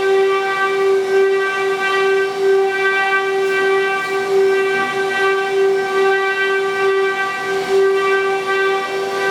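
Spindles of a 12-head, 4-axis multi-spindle CNC wood router running with a steady, high-pitched whine.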